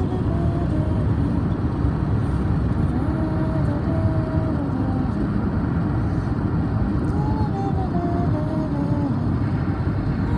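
Steady road and engine noise of a car driving, heard from inside the cabin as a continuous low rumble.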